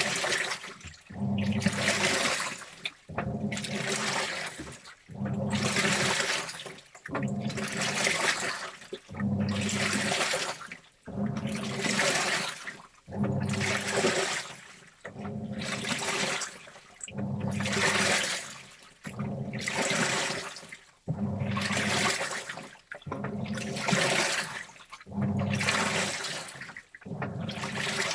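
Washing machine in its wash cycle: the drum turns in bursts about every two seconds, each with a low motor hum and water sloshing, separated by short pauses.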